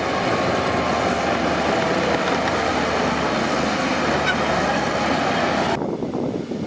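Heavy earthmoving machinery, its diesel engine running steadily under a strong hiss. Near the end the hiss cuts off abruptly, leaving a lower rumble.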